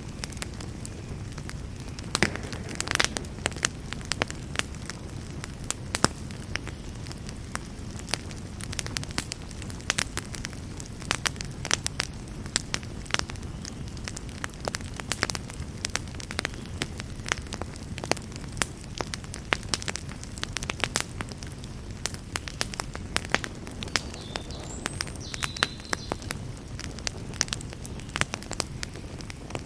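Campfire burning: dense, irregular crackling and popping over a steady low rush of flame.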